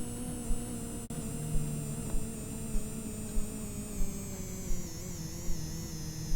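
Washing machine running, its motor whine slowly falling in pitch as the drum slows, with a low thump roughly every half second from the turning drum.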